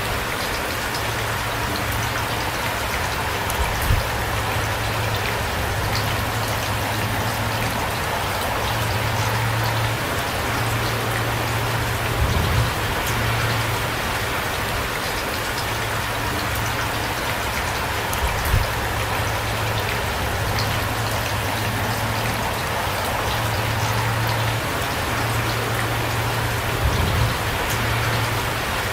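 Heavy rain falling steadily, with a few louder knocks of drops about four times and a low hum that comes and goes underneath.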